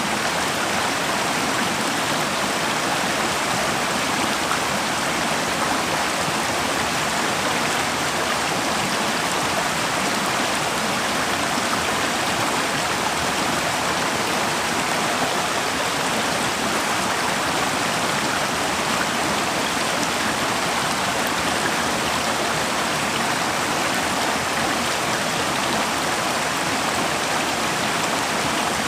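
A river flowing steadily in a continuous rushing wash of water.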